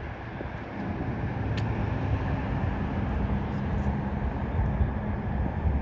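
A motor vehicle's engine running steadily, a low hum with a steady pitch that comes up about a second in.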